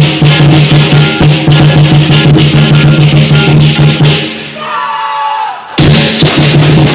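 Loud percussion music: rapid drum beats and cymbal clashes over a sustained low tone. About four seconds in it breaks off into a short falling tone, then the full drumming starts again near the end.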